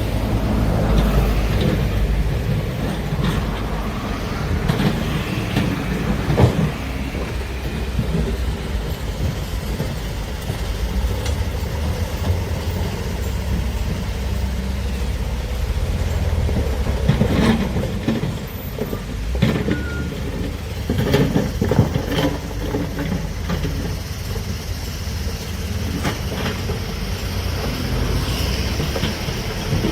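Heavy excavator's diesel engine running steadily under load, with scattered knocks and clanks from the machine at work, several close together about two-thirds of the way in.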